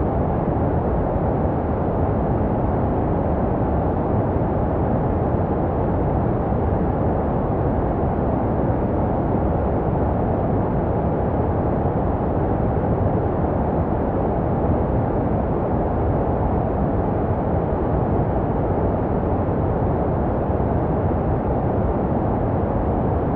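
Steady, deep, muffled hiss of baby sleep white noise, with its treble rolled off and no change in level. It is made to resemble the sounds heard inside the womb, for calming a crying or colicky infant.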